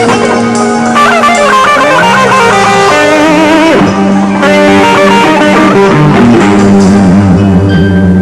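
Live band playing an instrumental passage between sung lines: a wavering, bending melodic lead over held chords and bass.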